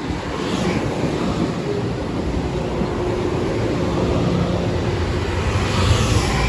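Long Island Rail Road train passing at steady speed, a continuous rumble with a faint steady whine.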